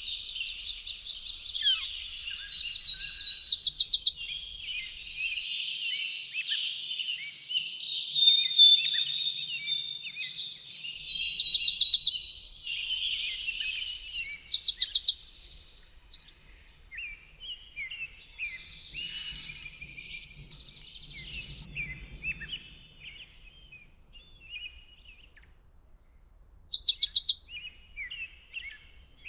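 Small songbirds chirping and singing, several voices overlapping, with short rapid trills breaking in every few seconds. The calls thin out for a few seconds before a last loud trill near the end.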